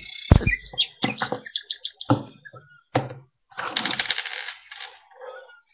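Irregular clicks and light knocks of small plastic toys being handled, with a short rustle about four seconds in.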